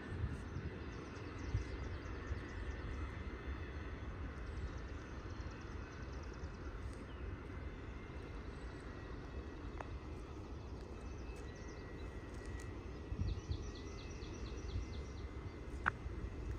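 Quiet outdoor ambience: a steady low rumble, with a faint run of quick high bird chirps near the end.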